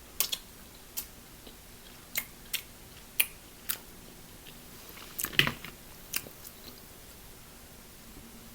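Close-miked eating: a string of short, sharp mouth clicks and smacks from chewing and biting, with a louder, crunchier cluster about five seconds in.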